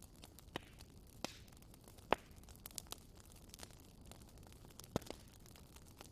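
Campfire crackling: irregular sharp pops and snaps over a low steady hiss, the loudest pop about two seconds in and another near the end.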